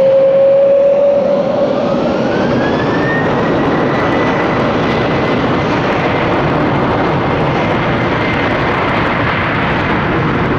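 Airbus A321neo's jet engines spooling up for the takeoff roll: a whine rises in pitch over the first three seconds, then holds as a steady high whine over loud, continuous jet noise.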